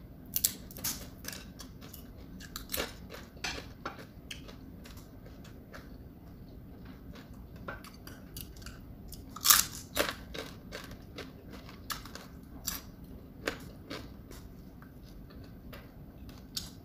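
Mouth chewing and crunching crispy fried tuyo (dried salted fish), with irregular sharp crunches; the loudest comes about halfway through.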